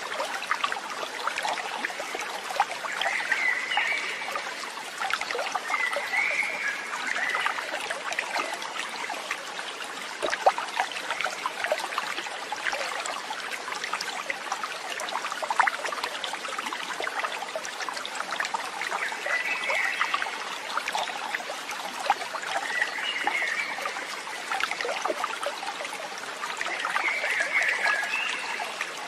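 Stream water trickling and splashing steadily, with small droplet-like clicks, and short animal calls about five times.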